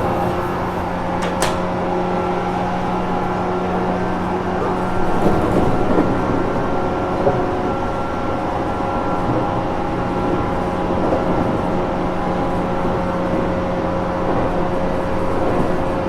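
Onboard running sound of a JR Kyushu 415 series 1500 subseries electric train, in motor car MoHa 414-1513, which is singled out as a car with an unusual running noise. Traction motor and gear noise carries several steady tones over a constant rumble, with a sharp click about a second and a half in.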